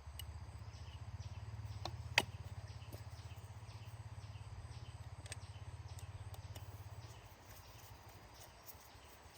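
Motorbike engine idling with a steady, fast low throb, cutting out about seven seconds in. A sharp click about two seconds in.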